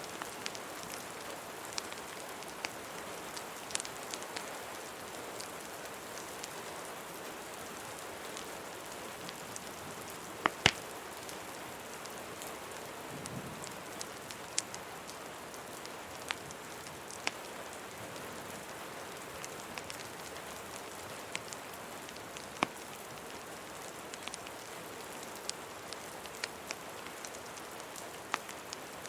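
Steady rain mixed with a crackling wood fire: an even hiss of rain with scattered sharp pops and crackles, the loudest pair about ten seconds in.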